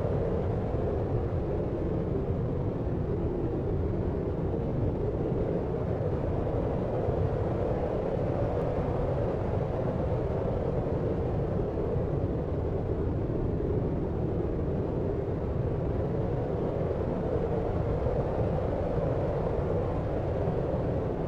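Constant deep noise with most of its weight in the low end and little hiss above, unchanging and without any distinct events: a sleep-aid white-noise track.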